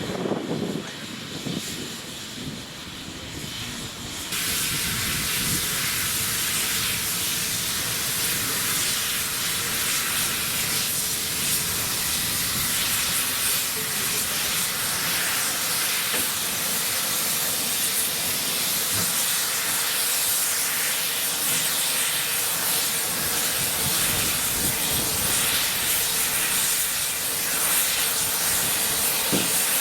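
Steam locomotive letting off steam: a loud, steady hiss that starts suddenly about four seconds in and carries on without a break, as when the safety valves lift.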